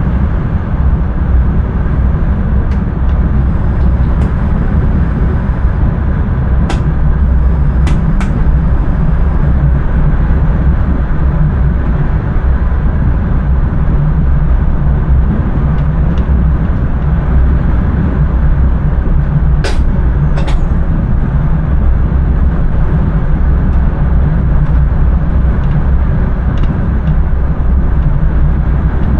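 Passenger train running along the line, heard from inside the driver's cab: a loud, steady low rumble, with a few short sharp clicks about seven seconds in and again around twenty seconds.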